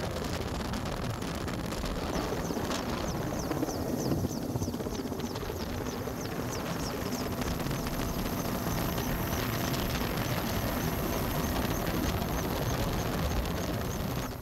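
Helicopter running overhead, a steady rumble, with a run of quick high ticks a few seconds in; it fades out at the very end.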